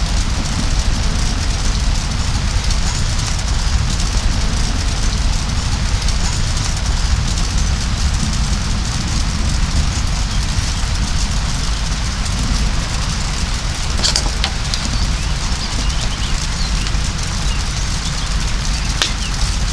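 Heavy rain pouring down steadily, with a deep drumming rumble underneath. Two sharp taps come through, one about two-thirds of the way in and one near the end.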